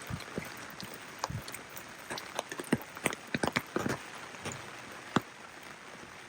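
Steady rain falling, with large drops tapping close by in an irregular patter and a few soft footsteps on wet ground.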